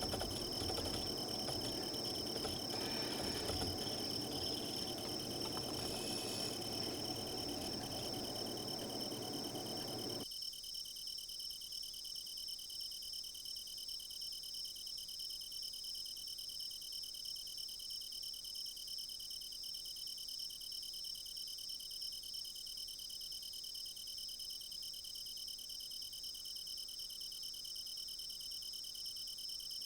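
Crickets chirping steadily in an unbroken high chorus. A lower rushing noise underneath stops suddenly about a third of the way in.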